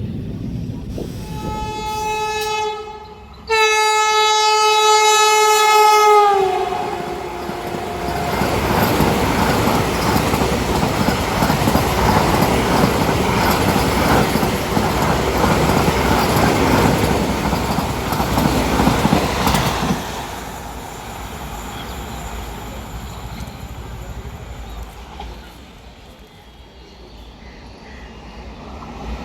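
High-speed electric express train sounding its horn twice, the second blast longer and louder, its pitch dropping as the train reaches the listener. The coaches then rush past at speed for about fourteen seconds with rail clatter, and the sound dies away as the train recedes.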